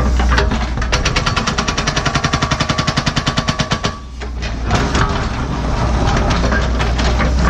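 Excavator-mounted NPK hydraulic hammer pounding hard blue basalt bedrock in a fast, even run of blows, about ten a second, starting about a second in and stopping about four seconds in. The Cat 314E excavator's diesel engine keeps running under it and carries on alone after the hammer stops.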